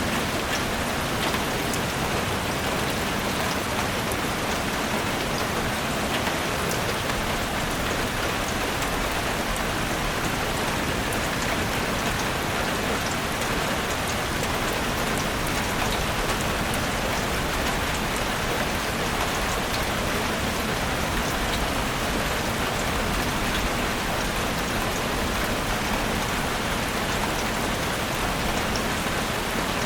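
Steady rain falling in a forest, an even hiss of rain with single drops ticking through it, unchanging throughout.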